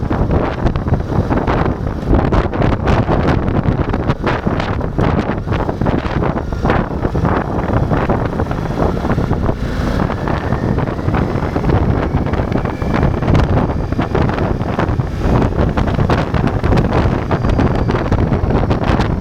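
Ducati Multistrada V4 motorcycle riding along, its V4 engine running under heavy wind rumble on the microphone. A faint rising whine comes through around the middle.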